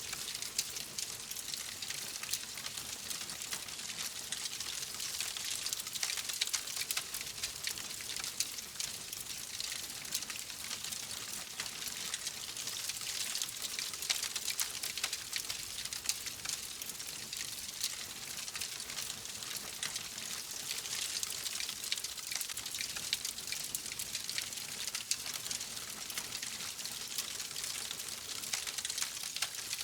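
Wood fire crackling steadily, a dense run of small pops and snaps over a soft hiss.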